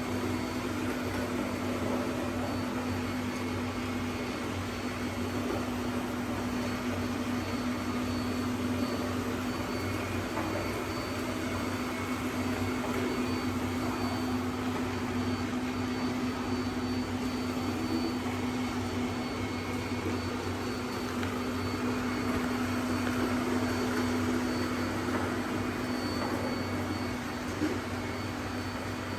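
Two robot vacuums, a Bissell SpinWave and a XIEBro, running at the same time: a steady motor hum with a constant low tone under a whirring hiss.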